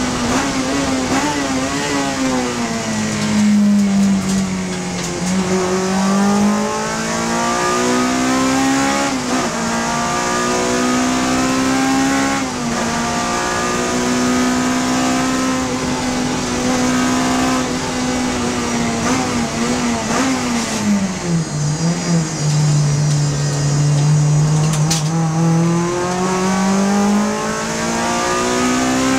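Honda Civic FD2 race car's four-cylinder engine running hard on track, its pitch climbing through the revs and dropping sharply at each gear change. About three-quarters of the way through, the pitch falls low and holds there before climbing again.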